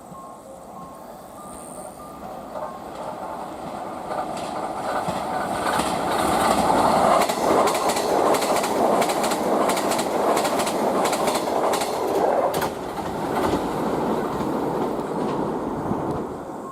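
A train passing through a station: it builds up as it approaches, then runs loudly past for about seven seconds with a rapid series of clicks from the wheels over the rail joints, and fades as it moves away.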